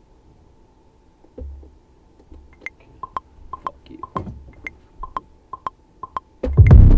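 Short, soft pitched ticks at irregular spacing, like sound previews or a sparse click pattern from music production software. About half a second before the end, a loud electronic beat comes in.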